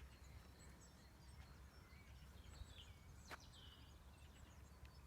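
Faint birdsong: scattered short chirps and twitters from small birds over a low, steady rumble, with a single sharp click a little after three seconds in.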